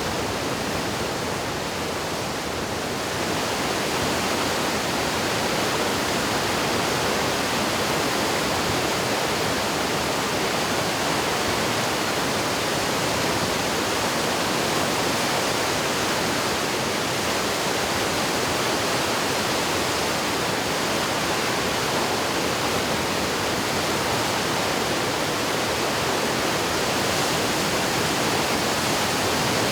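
River swollen with typhoon floodwater, rushing by in a loud, steady wash of noise.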